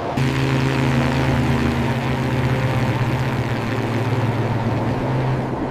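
Steady drone of a propeller airplane's engine, a low hum over a broad rushing noise, cutting in sharply just after the start.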